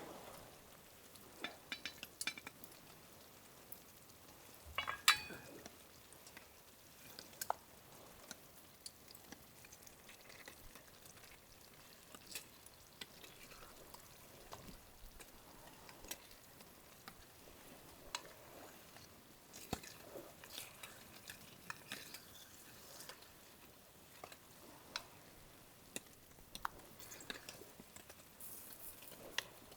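Cooking in a cast-iron skillet: a utensil clinking and scraping against the pan in scattered knocks, over faint sizzling.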